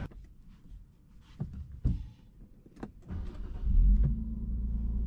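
Nissan Skyline 400R's 3.0-litre twin-turbo V6 starting, heard from the driver's seat with a NISMO Sports Titanium Muffler fitted. A few faint clicks come first, then about three and a half seconds in the engine catches with a brief rise in revs and settles to a steady idle.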